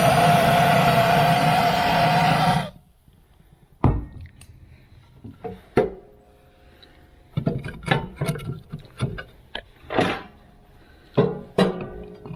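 A vehicle's steady driving noise with a held whine, cut off sharply about two and a half seconds in. Then a quiet room with a scattered series of knocks and clatters as things are handled and set down on wood.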